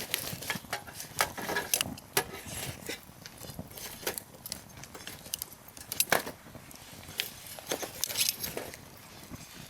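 Wood bonfire crackling, the burning firewood giving off irregular sharp pops and snaps of varying loudness.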